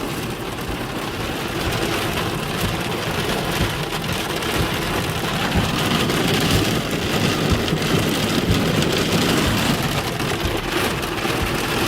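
Hail and heavy rain hitting a vehicle's roof and windows, heard from inside, as a dense, steady patter of small impacts.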